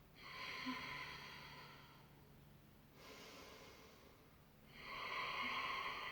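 A woman breathing hard while holding a plank on a stability ball: two long, audible exhales with a fainter inhale between them.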